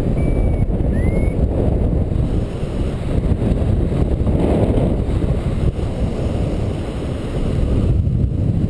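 Wind rushing over the microphone of a tandem paraglider in flight in strong wind, a steady low noise throughout. A few short high chirps sound in the first second and a half.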